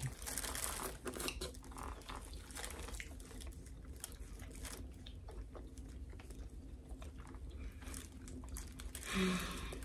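Close-miked mouth noises of eating seafood: chewing and lip smacking, with many small wet clicks. A short hum of a voice comes about nine seconds in.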